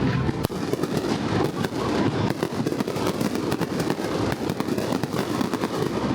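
Fireworks show: many bangs and crackles going off in quick, irregular succession.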